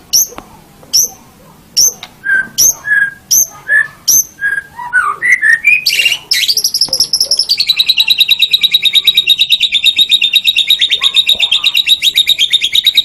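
White-rumped shama (murai batu) singing: sharp whistled notes that sweep upward, about two a second, then a quick rising run of notes, and from about six seconds in a long, fast, even trill.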